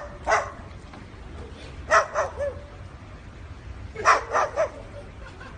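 A dog giving short, sharp barking calls in three quick groups of two to four, about two seconds apart.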